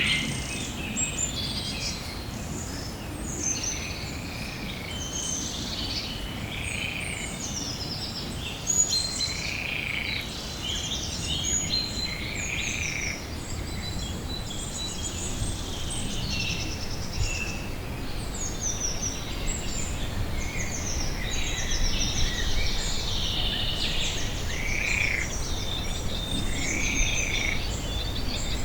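Pond-side nature ambience: many small birds chirping and singing, with a short call that recurs every couple of seconds, over a steady low background rumble.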